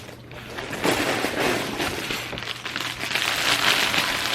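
Plastic packaging crinkling and rustling as bagged Lego parts are handled, getting louder about a second in.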